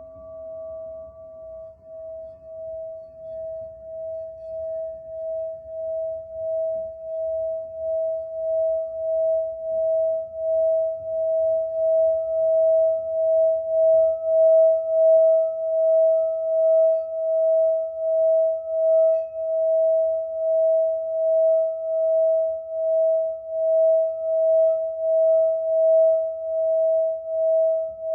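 A single sustained ringing tone with an even pulse, about three swells every two seconds, growing louder over the first half and then holding steady.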